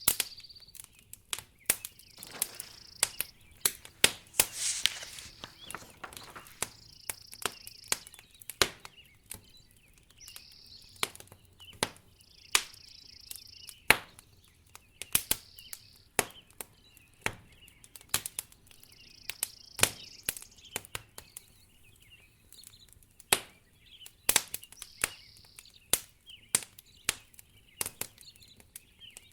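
Wood fire crackling in a fireplace, with many sharp, irregular pops and snaps. A short, high chirp repeats every two to three seconds, and a brief soft hiss comes about four seconds in.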